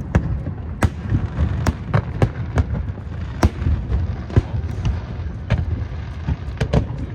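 Aerial fireworks bursting: sharp bangs at irregular intervals, about a dozen, over a steady low rumble.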